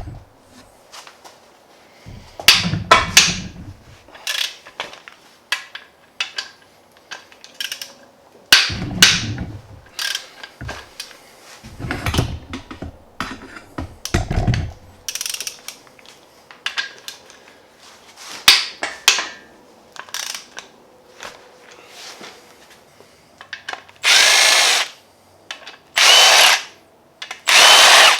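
Scattered metal clicks and clanks of tools and engine parts being handled. Then, about 24 seconds in, a handheld power tool runs in three short bursts of about a second each, with a faint whine.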